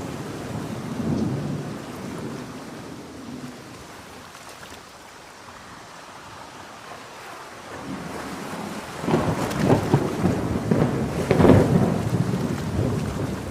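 Thunder over steady rain. A rumble dies away over the first few seconds, then after a lull a louder, crackling roll of thunder builds about nine seconds in and is loudest near the end.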